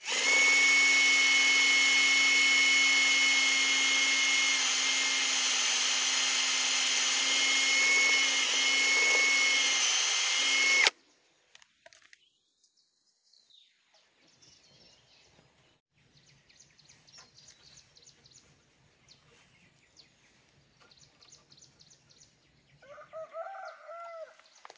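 Power drill running steadily with a constant whine for about eleven seconds, then stopping abruptly. A short animal call follows near the end.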